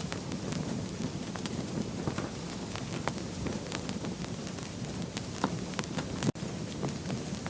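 Wood fire crackling: scattered small snaps and a few louder pops over a steady low rumble of flames. The sound cuts out for an instant a little after six seconds.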